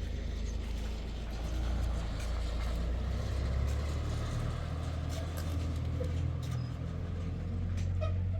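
Motor vehicle driving: a steady low engine and road rumble.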